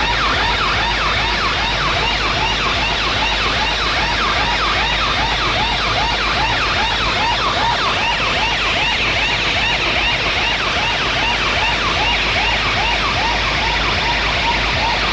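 A festival DJ sound system played loud: a fast wailing siren-style effect, about three rising-and-falling sweeps a second, over a steady deep bass.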